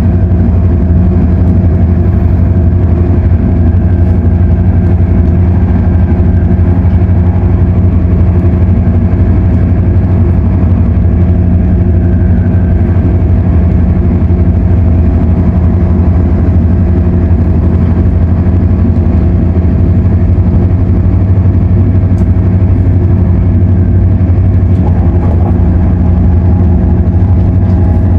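Interior running noise of an MTR Airport Express CAF train cruising between stations: a loud, steady low hum with constant droning tones from the running gear, traction equipment and air conditioning, which the uploader calls noisy. A slightly higher tone joins in near the end.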